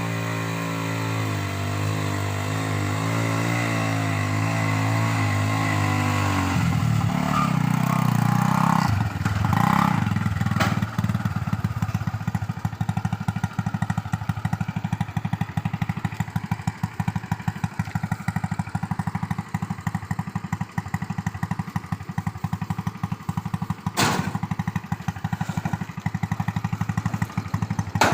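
Motorcycle engine of a homemade vehicle, a single-cylinder four-stroke Honda Revo, running steadily, then turning rougher and rattly after about six seconds as the vehicle clatters along. Sharp knocks stand out twice near the end.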